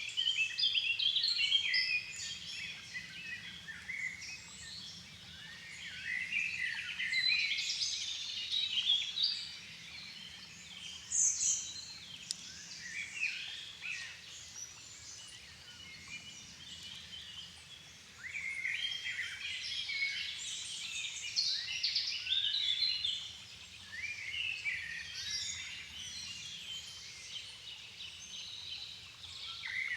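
Dusk chorus of several songbirds in a floodplain forest, their phrases overlapping and coming in waves, over a faint low background noise.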